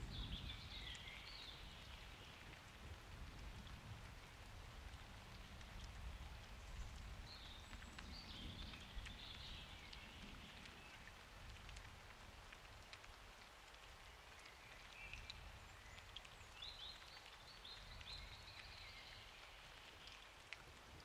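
Soft, steady rain with scattered drops ticking, recorded outdoors during a summer thunderstorm, as a low rumble of thunder dies away at the start. Faint bird chirps come through the rain in three short spells.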